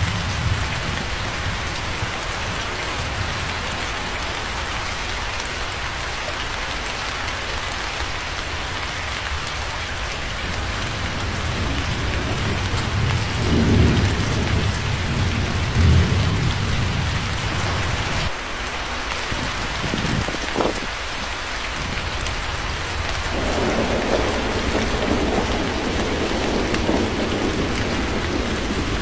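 Steady rain falling, with thunder: two low rolls around the middle, then a longer rumble that carries on through the last part.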